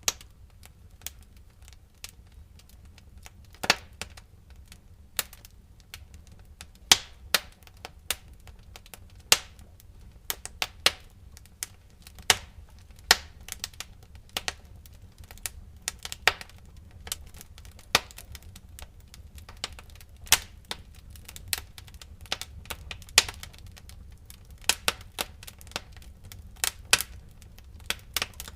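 Wood fire crackling in a fireplace: irregular sharp pops and snaps, several a second and unevenly spaced, over a low steady rumble of the flames.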